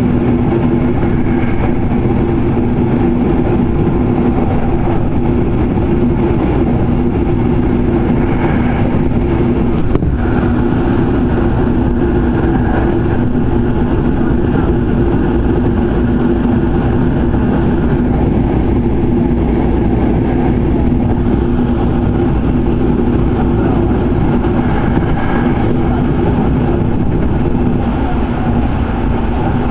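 Electric commuter train running steadily at speed, heard inside the carriage: a constant low rumble of wheels on rail with a steady hum from the running gear.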